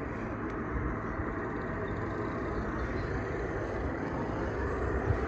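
Steady outdoor background noise, a low rumble and hiss with no distinct events.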